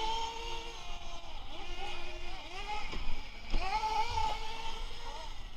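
Whine of a Xinlehong 9125 1/10 RC truck's brushless motor and spur gear. It rises and falls in pitch as the truck speeds up and slows down in several surges, with a sharp climb at about three and a half seconds.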